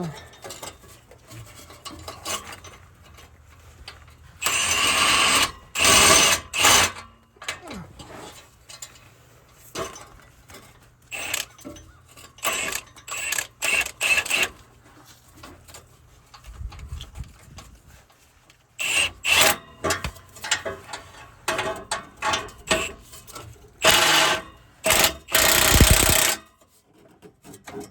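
Power tool running in short rattling bursts, driving the nuts down on steel muffler clamps around an F150's exhaust pipe, with clicks and knocks of the tool and metal being handled between the bursts.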